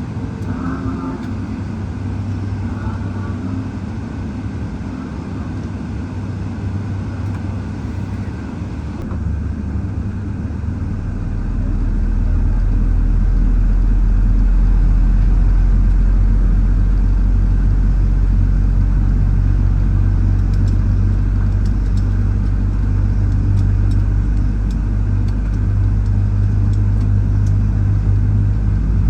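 Boeing 777-300ER aircraft noise: a steady low hum and rumble that grows louder and deeper about eleven seconds in, then holds.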